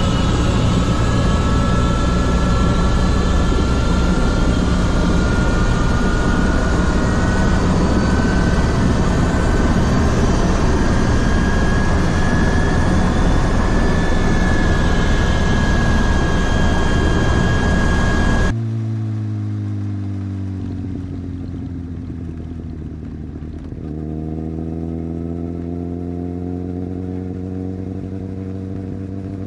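Superbike riding at speed, with heavy wind rush over the engine's slowly rising whine. About two-thirds of the way through it cuts suddenly to a quieter, clearer engine note that falls in pitch, then jumps up again and holds.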